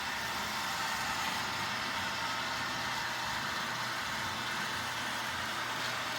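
HO-scale model train running around the layout's main line: a steady mechanical hum with an even rolling hiss that stays level throughout.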